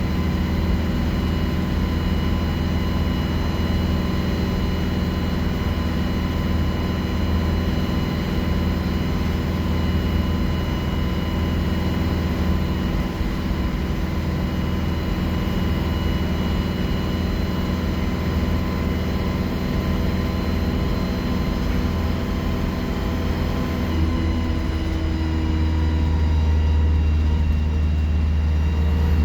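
Alexander Dennis Enviro 200 bus's diesel engine running with a steady drone and a high turbocharger whistle. About 24 seconds in the pitch of the tones changes, and it grows a little louder near the end.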